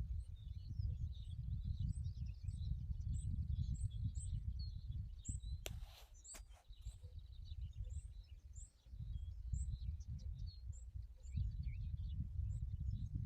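Small birds chirping, short high calls repeated about twice a second, over a loud, uneven low rumble. A few sharp clicks about six seconds in.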